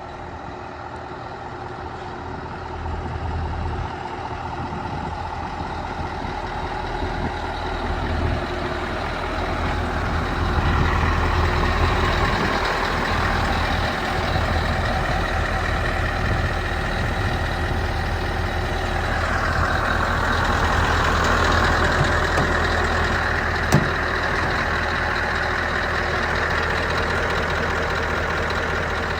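Scania R 500 truck's V8 diesel engine running steadily, growing louder over the first ten seconds, with one sharp click about 24 seconds in.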